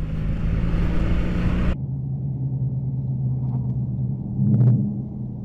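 Steady car engine hum and road noise. About two seconds in it cuts abruptly to a duller, lower engine hum, which swells briefly near the end.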